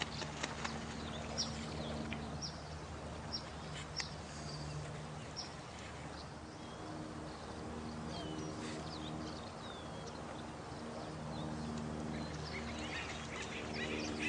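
Nighttime nature soundscape: a steady wash of running water with short, high bird chirps repeating about once a second through the first half and busier calls near the end. Low, held droning tones sound underneath.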